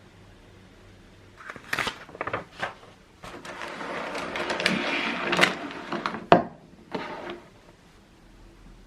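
Handling noises: a few sharp clicks and knocks, then about three seconds of rustling or scraping, with a very sharp click near the end of it.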